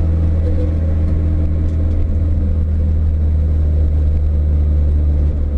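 Renault Clio 172's 2.0-litre four-cylinder engine running at fairly steady revs, heard loud from inside the stripped-out cabin.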